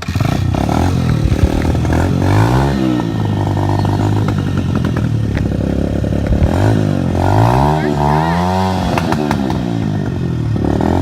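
Honda XR100R dirt bike's single-cylinder four-stroke engine catching on the first try and running, revved up and back down a few times, around two seconds in and again about six to nine seconds in.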